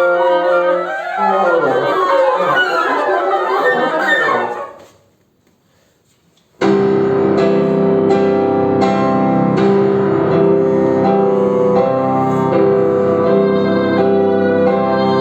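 Chamber ensemble of flute, oboe and bassoon playing classical music: a fast flurry of notes that dies away about five seconds in, then, after a short silence, a sudden re-entry with steady held notes and repeated note attacks.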